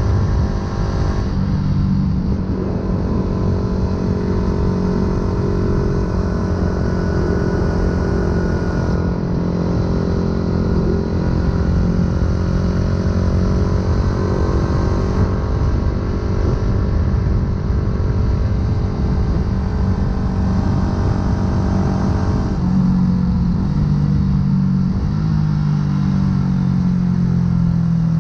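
2008 Yamaha YZF-R125's single-cylinder four-stroke engine running through a full aftermarket exhaust while riding, with wind rush. The engine note steps to a new pitch about a second in, rises slowly through the middle, and changes again about 22 seconds in.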